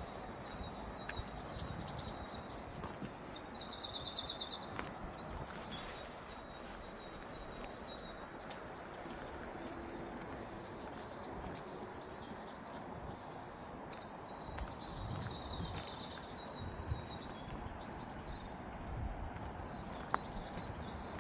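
A songbird singing in fast trilled phrases of rapidly repeated high notes, in two bouts: one a couple of seconds in and another in the second half, over a steady low background noise.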